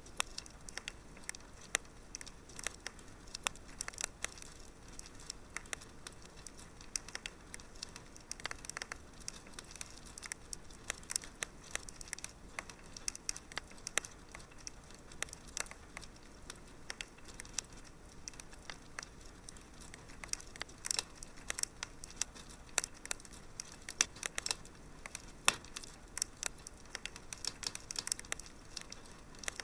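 Wood fire crackling in a fireplace: a steady faint hiss dotted with frequent, irregular sharp pops and snaps.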